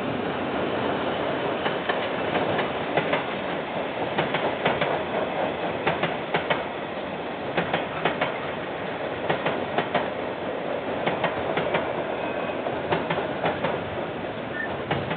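KiwiRail train rolling past on the rails: a steady rolling noise of wheels on track, with groups of sharp clicks as the wheels cross rail joints.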